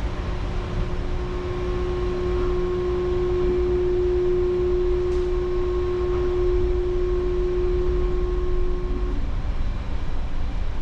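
Rubber-tyred Taipei Metro Brown Line train running, a heavy low rumble with a steady hum over it that stops about nine seconds in.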